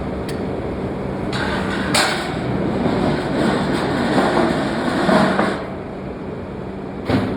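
Forging shop noise: machinery running with a steady hum, a denser clatter for a few seconds in the middle, and sharp metal impacts about two seconds in and near the end.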